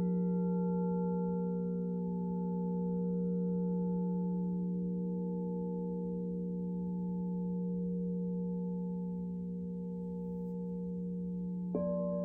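Alchemical crystal singing bowls ringing in long, steady overlapping tones that swell and fade slowly. Near the end another bowl is struck, adding higher tones to the ringing.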